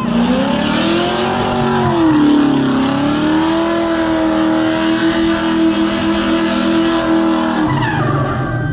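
A car engine revs up and is held at high, steady revs for several seconds, with tyre squeal under it as in a burnout. The revs fall away near the end.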